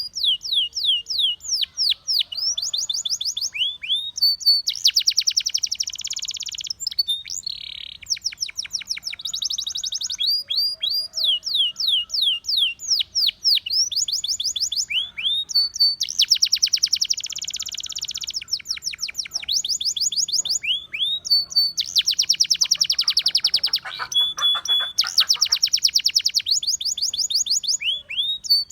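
Russian singing canary in full song: runs of quick, falling whistled notes alternating with long, fast trills, one phrase after another with only brief breaks.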